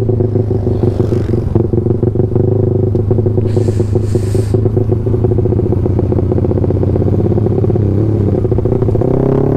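Yamaha MX King 150 underbone motorcycle's single-cylinder engine running steadily under light throttle, heard from on board the moving bike. A brief hiss comes about four seconds in, and the engine pitch rises a little near the end.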